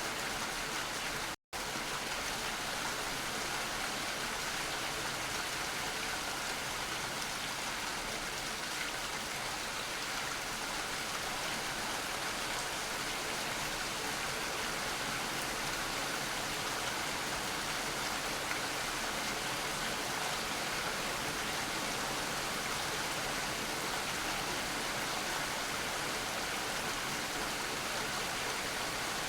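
Steady, dense rain falling, an even hiss and patter of drops. It cuts out to silence for an instant about a second and a half in, then carries on unchanged.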